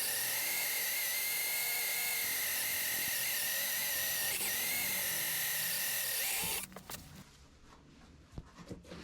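Electric drill running under load, most likely boring rivet holes in 1.6 mm steel plate, its whine wavering slightly in pitch. It stops suddenly about six and a half seconds in, followed by a few light clicks and knocks.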